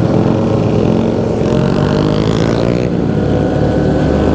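Motorcycle engine running under way, its pitch rising as it accelerates and then dropping about three seconds in, over wind noise from riding.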